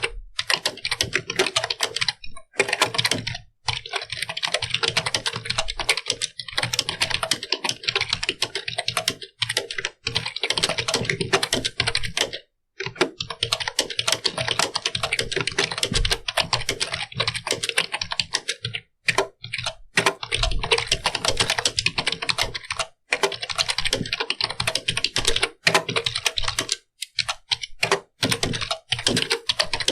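Fast typing on a computer keyboard: quick runs of key clicks broken by short pauses.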